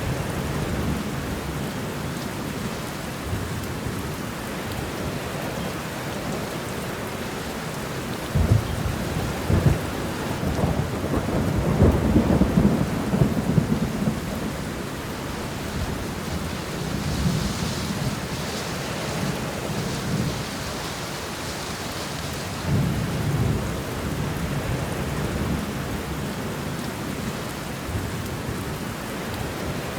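Steady rain with thunder rumbling low beneath it. The rumble swells about eight seconds in and is loudest around twelve seconds, then eases back, while the patter of the rain goes on throughout.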